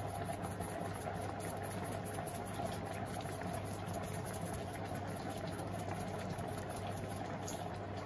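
Pot of curried chicken feet simmering on the stove, a steady bubbling with a low hum underneath.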